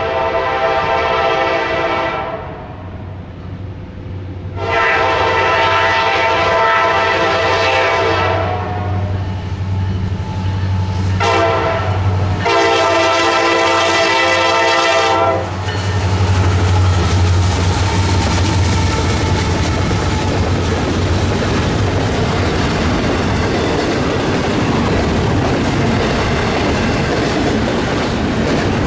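Norfolk Southern diesel locomotives blowing the grade-crossing horn signal, long, long, short, long, over the low rumble of their engines. After the last blast, about halfway in, the double-stack container train rolls past with a steady rush of wheel and rail noise.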